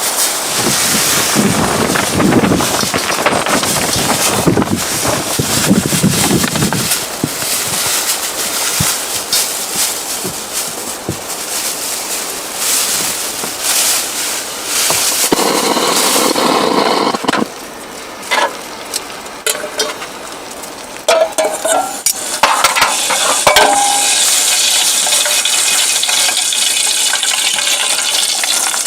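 A steady sizzling hiss, with scattered sharp clinks and knocks a little past the middle.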